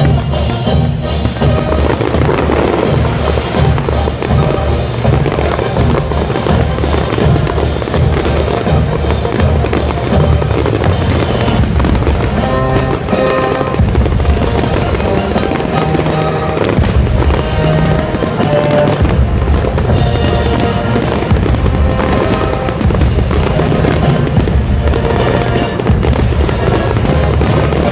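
Fireworks going off in quick succession, many bangs overlapping, with music playing throughout.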